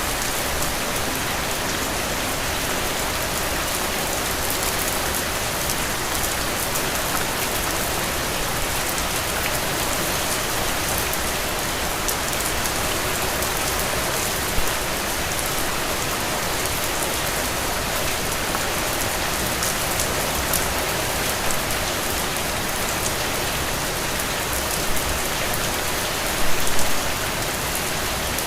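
Heavy rain falling steadily, a dense even hiss with close drops ticking through it; a few louder hits stand out, with a brief cluster of them near the end.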